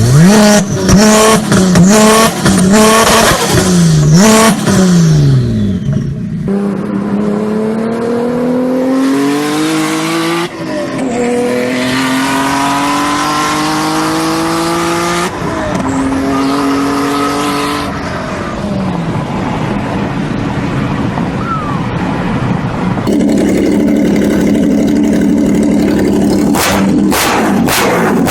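First-generation Honda NSX's naturally aspirated V6 engine and exhaust: quick rev blips at first, then long pulls with the pitch climbing under hard acceleration and a sudden drop at an upshift. It ends in a steadier, level drone, with abrupt cuts between clips.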